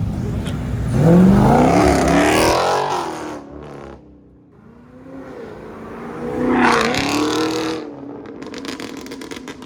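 Car engines revving hard as cars pull away. Two loud revs: one about a second in that climbs in pitch, and another, rising and then falling, around six to seven seconds in.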